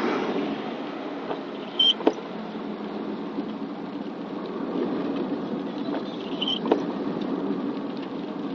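Steady running noise of a car on the road, with rain on the vehicle. Twice, about four and a half seconds apart, there is a short high squeak with a sharp click.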